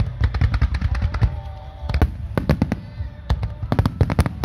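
Aerial fireworks going off in quick succession: many sharp bangs and crackles over a low rumble.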